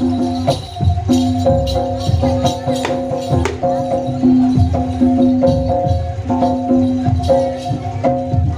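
Jaranan gamelan music: metallic pitched percussion repeating a short figure of a few notes over regular drum strokes, with jingling high percussion on top.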